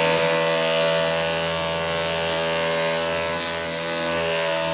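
Cordless SDS hammer drill running steadily with a chisel bit, hammering into brick.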